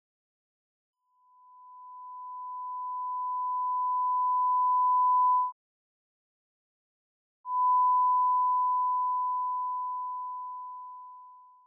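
A pure sine-wave test tone of about 1 kHz, used as an amplitude example: it swells from silence to full level over about four seconds and stops abruptly, then after a two-second gap it returns at full level and fades away over about four seconds, its pitch unchanged throughout.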